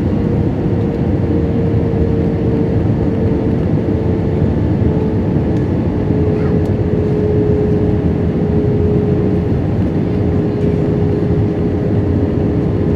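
Steady cabin noise inside an Airbus A320 in flight: airflow rush and the hum of its IAE V2500 turbofan engines, with one steady engine tone that slowly drifts a little lower in pitch.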